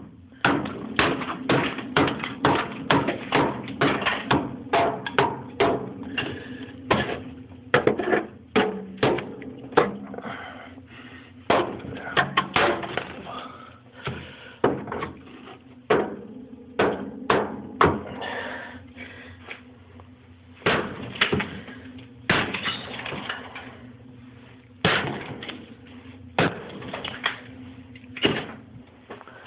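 Hammer striking and breaking ice built up inside a refrigerator: fast runs of sharp knocks and cracks with short pauses, more spaced out in the second half, over a steady low hum.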